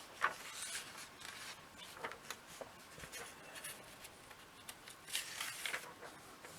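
Faint paper rustling and light clicks of a comic book's pages being turned and handled.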